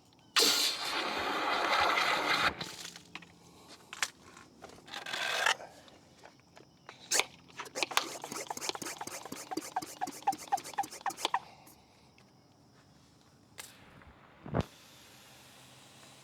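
Cleaning a trailer wheel: two hissing bursts of spray, then a wet brush scrubbing in quick squeaky strokes. A single knock comes near the end.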